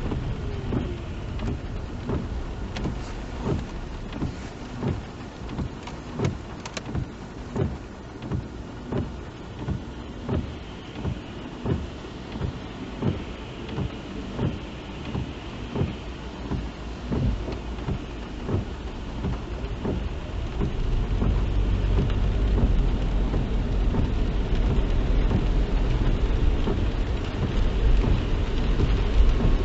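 Inside a moving car in the rain: rain, tyre and engine noise, with a regular soft beat about one and a half times a second for the first two-thirds. Then the low road rumble grows louder as the car picks up speed.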